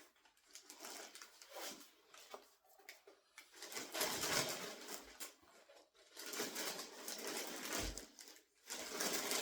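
Rustling and handling of gift packaging in three stretches of two to three seconds each, the first starting about three and a half seconds in, with a few small clicks before.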